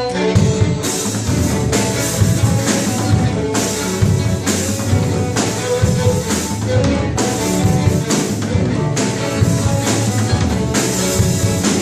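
Live music from a string ensemble, sustained bowed notes over a drum beat.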